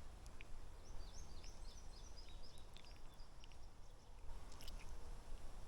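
A small bird singing faintly: a quick run of about eight short, high notes that step down in pitch and fade out about three and a half seconds in, over a low background rumble with a few faint clicks.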